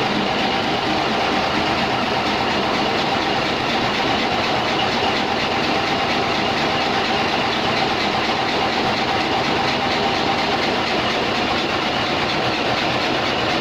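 Cummins diesel engine running steadily at a constant speed, a loud, dense, unbroken drone.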